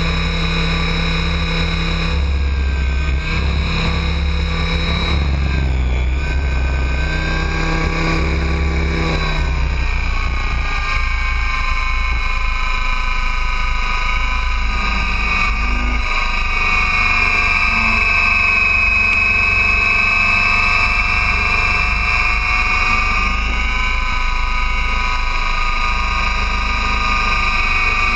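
Align T-Rex 800 radio-controlled helicopter in flight: a steady whine from its drive and rotor, with a few slight shifts in pitch and a stronger high note in the second half. Wind rumbles on the microphone underneath, heaviest in the first half.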